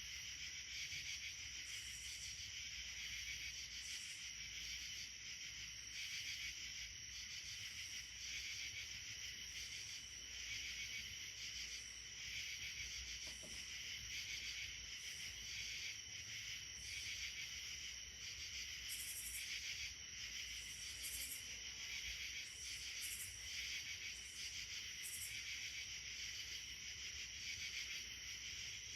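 A steady chorus of insects such as crickets or katydids, shrill and continuous with a faint pulsing.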